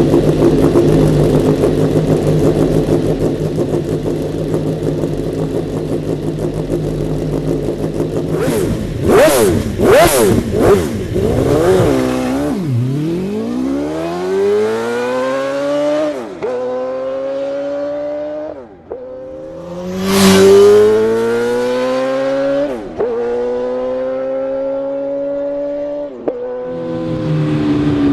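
PGM V8 motorcycle's 2.0-litre 90-degree V8, built from two Yamaha R1 cylinder banks. It runs steadily, then takes a few quick throttle blips about nine to eleven seconds in. From about twelve seconds it accelerates hard, the pitch climbing and then dropping sharply at each of about four gear changes, loudest just after twenty seconds.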